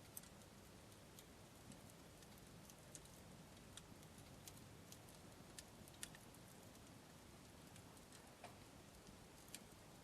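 Wood campfire crackling faintly, with scattered sharp pops at irregular intervals over a low steady hiss.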